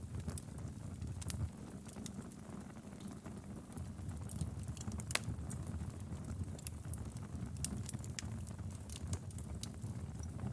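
Wood fire burning in a fireplace: a low steady rush of flame under frequent sharp crackles and pops, one louder pop about five seconds in.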